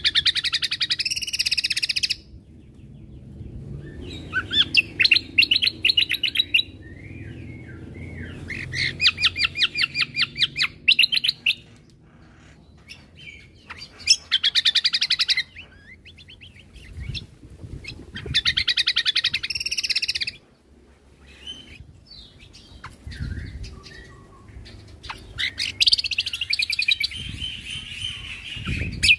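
Cucak kombo (kecial kombo) songbird singing loud bursts of rapid, repeated high chattering notes, each burst lasting a second or two with short pauses between. This is the full, fast 'tembakan' song used as a training recording for other birds.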